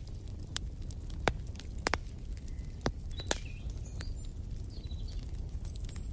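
Wood fire crackling in a fireplace: irregular sharp pops over a steady low rumble. From about halfway through, short high bird chirps join in.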